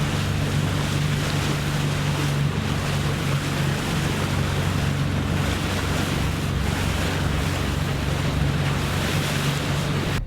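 A boat under way at sea: a steady low engine drone under rushing wind and water noise, with wind buffeting the microphone. It cuts off abruptly at the end.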